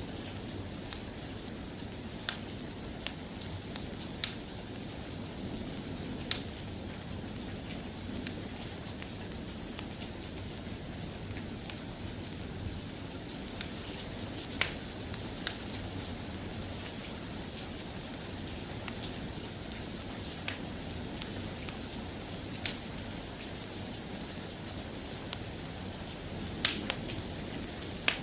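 Steady, soft rain falling, an even hiss, with occasional sharp ticks and pops scattered through it.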